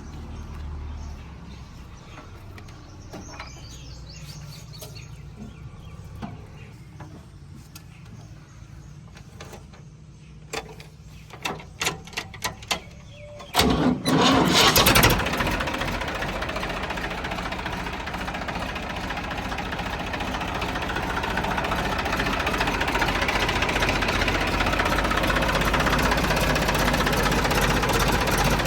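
Diesel engine of a tractor or backhoe running, first faint and low, with a few sharp knocks; about 14 s in there is a loud burst, and the engine then runs much louder and steadily, as though started up or revved close by.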